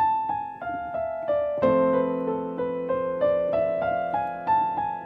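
Piano playing a two-hand exercise: the right hand runs through the A harmonic minor scale in triplets, about three notes a second, first falling and then rising, over sustained left-hand chords. A new chord enters about one and a half seconds in.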